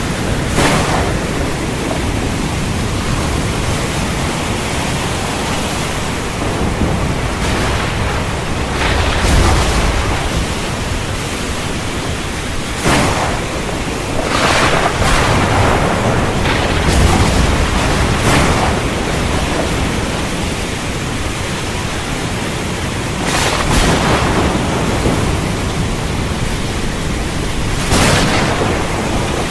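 Heavy rain falling steadily, with sharp thunder cracks several times and low rumbling thunder in between.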